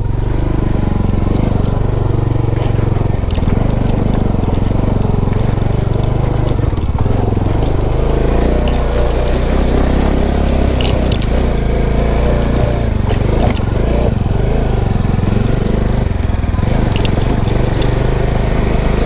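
Motorcycle engine running steadily at low speed over a rough off-road trail, with a few sharp clicks and knocks from the bike over the bumps.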